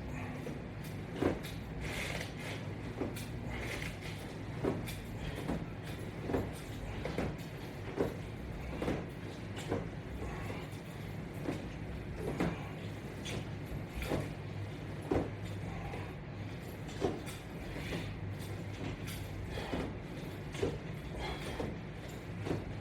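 Sit-ups done against resistance straps: a short creak or scuff from the strap rig and body movement repeats about once a second with each repetition, over a steady low hum.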